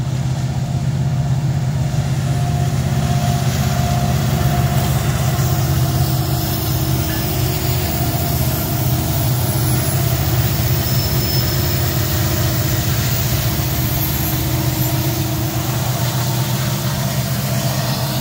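Diesel-powered Union Pacific double-stack container freight train working up a steep grade, a steady loud engine drone with the noise of the train rolling by.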